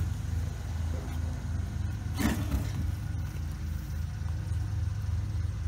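Vehicle engine idling with a steady low, pulsing rumble, and a short knock a little over two seconds in.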